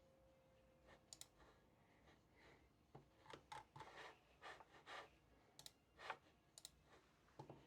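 Faint, irregular clicks and light taps from desk work, bunched into quick runs, with short soft scratchy sounds between them.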